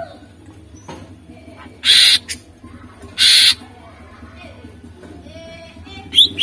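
Greater green leafbird (cucak ijo) calling: two loud, harsh rasping bursts about a second apart with soft whistled notes around them, then a quick run of sharp rising-and-falling chirps near the end. A steady low hum runs underneath.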